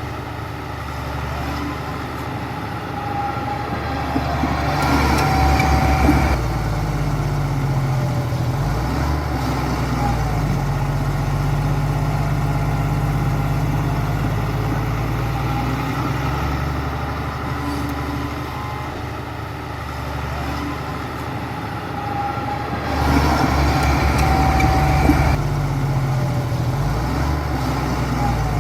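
Heavy diesel engine of earthmoving machinery running steadily, its pitch shifting as it works, with two louder, rougher stretches about five seconds in and again near the end.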